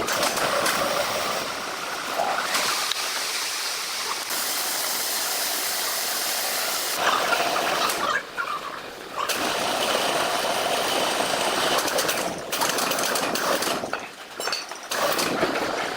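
Sawmill machinery running, a dense, steady noise that drops out sharply a few times.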